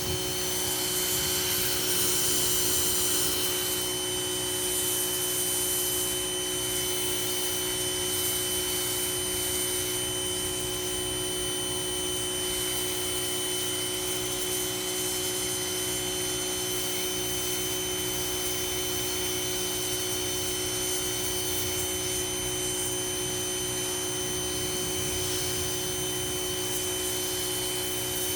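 Ryobi 2000 psi electric pressure washer running steadily, its motor and pump giving a constant whine over the hiss of the spray, which is strongest in the first few seconds.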